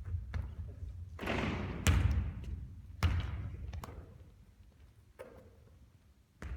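Basketball bouncing on a hard court floor: a few sharp, hollow thuds, the loudest about two and three seconds in, then a quieter lull before another bounce at the very end.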